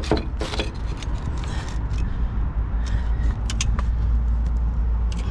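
Low, steady rumble of a motor vehicle's engine running close by, growing slightly louder, with a few short sharp clicks over it.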